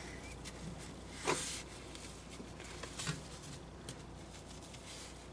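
Faint scrubbing and wiping on a stovetop as cleaner is worked in, with a short hiss about a second in and another brief one near three seconds.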